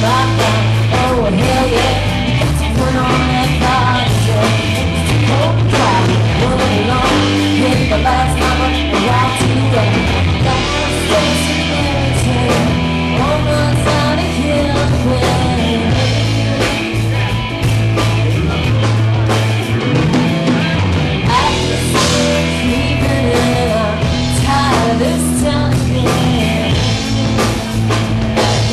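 Live rock band playing loudly: electric guitar, bass and drum kit, with some singing.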